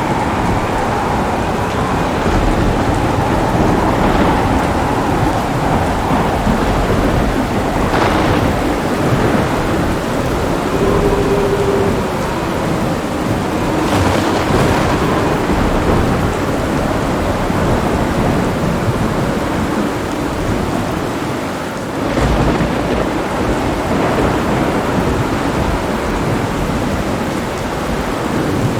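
Heavy rain pouring steadily with thunder rumbling low throughout a thunderstorm. Sharper claps of thunder break through about eight and fourteen seconds in, and another low jolt comes near twenty-two seconds.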